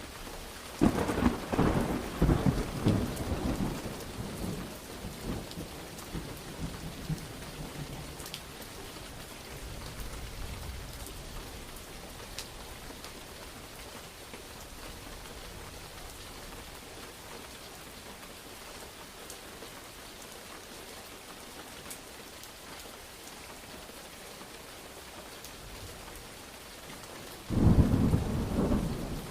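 Steady heavy rain with thunder: a sharp, crackling thunderclap about a second in that rolls off into rumbling over several seconds, a faint low rumble later, and another sudden loud clap near the end.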